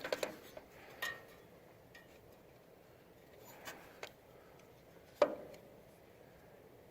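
A few irregular light clicks and knocks as a distributor cap is worked onto a 1942 Ford 9N tractor's distributor, with the sharpest knock about five seconds in.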